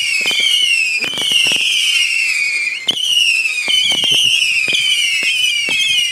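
A 50-shot firework cake firing: shrill whistles one after another, each falling slowly in pitch and overlapping the next, with sharp bangs and cracks several times a second.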